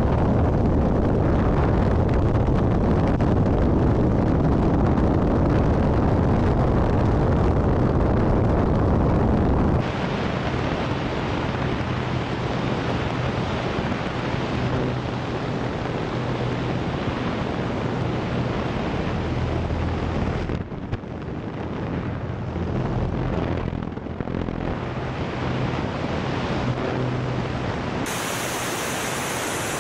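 Wind rushing over an action camera's microphone on an aerobatic propeller plane in flight, with a steady engine drone coming through. The sound changes abruptly about ten seconds in, and again near the end, where it turns to a bright hissing rush.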